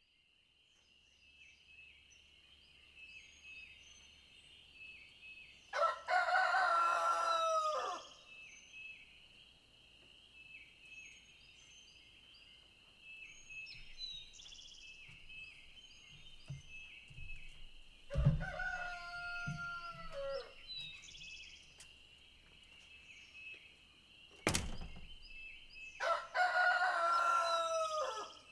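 A rooster crowing three times, each crow about two seconds long and dropping off at the end, over a steady high-pitched chorus of small chirps. A single sharp click comes between the second and third crows.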